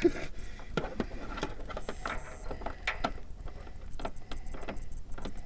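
Scattered small clicks and knocks of hand tools and metal parts being handled while a part is fitted and bolted on, over a low steady hum.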